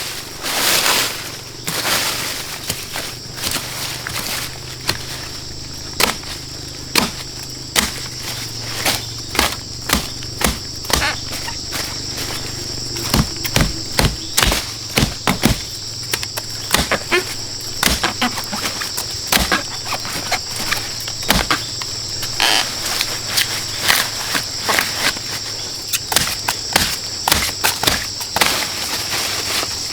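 Insects chirring in a steady high-pitched drone, with many irregular sharp knocks and clicks throughout.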